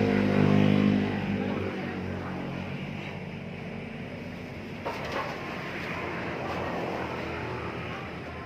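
A vehicle engine passes close by and fades away over the first couple of seconds, leaving faint background noise with a single knock about five seconds in.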